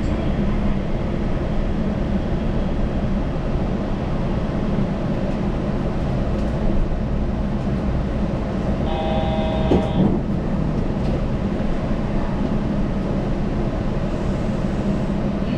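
Yurikamome rubber-tyred automated train running, a steady rumble heard from on board. About nine seconds in, a brief tone of several pitches sounds for about a second, with a short rising whine just after it.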